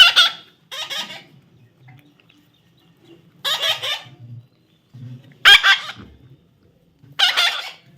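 A baby parrot gives five short, harsh squawks, spaced irregularly about one to two seconds apart.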